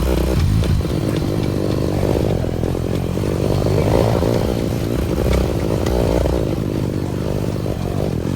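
Motorcycle engine running steadily as the bike is ridden, with clattering and scraping from the bike over rough ground.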